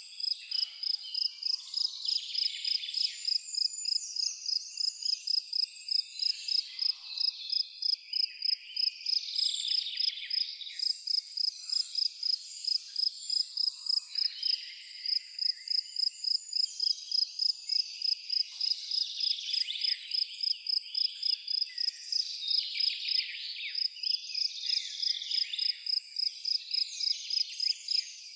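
A cricket chirping steadily, about three high chirps a second, over a layer of bird chirps and insect calls.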